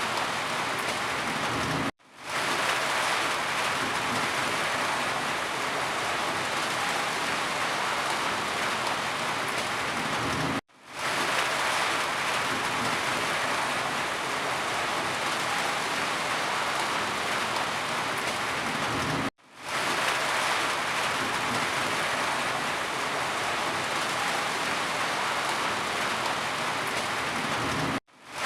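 Steady, heavy rain falling. The sound cuts out sharply to silence three times, about every nine seconds, and comes straight back each time.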